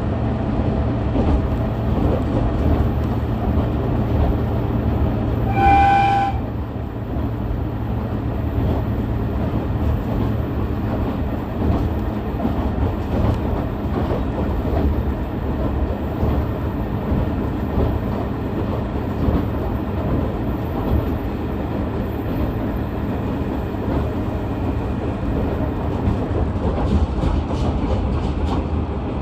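Onboard running noise of a KiHa 110-series diesel railcar: steady engine and wheel noise on the rails. About six seconds in, the train sounds one short horn blast, and the low engine note eases just after it.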